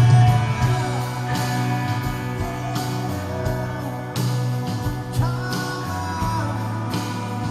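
Rock band playing live, guitars over a steady drum beat, with some singing.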